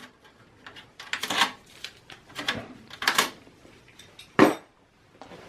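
Sheet-metal PCI slot covers and the expansion-slot retaining latch of a computer case being unlatched and pulled out: an irregular run of metallic clicks, scrapes and clinks, the sharpest one about four seconds in.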